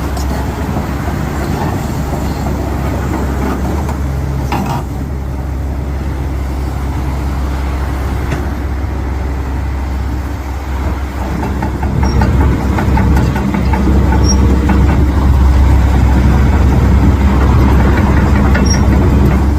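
Kobelco SK210LC-9 hydraulic excavator's diesel engine running with a steady low hum, getting louder about eleven seconds in and staying up.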